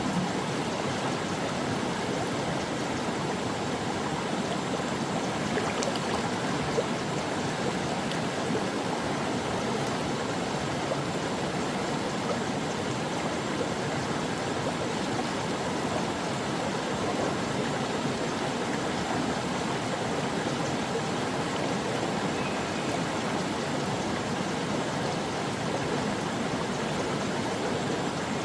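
Stream water flowing and babbling steadily over rocks.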